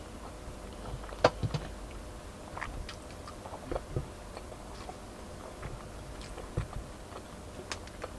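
Close-up chewing and mouth sounds of a person eating, with scattered short clicks and taps; the loudest click comes about a second in.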